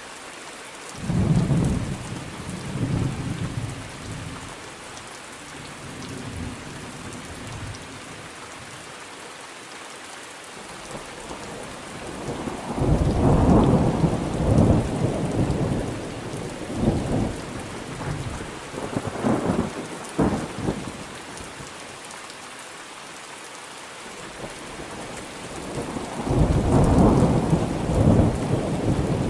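Thunderstorm: steady rain with rolls of thunder, a short rumble about a second in, a long rolling rumble starting a little before the middle, and another near the end.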